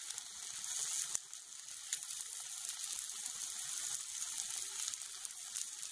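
Egg masala sizzling quietly in a kadai on the stove: a steady high hiss with a few faint crackles.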